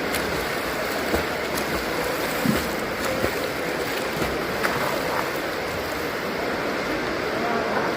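Swimming-pool water splashing: a steady wash of water noise with a few faint clicks.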